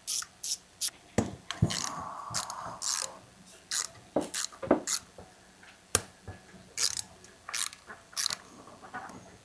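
Hand ratchet wrench clicking as it works bolts loose on a chainsaw engine, giving an irregular run of short, sharp clicks with brief pauses between strokes.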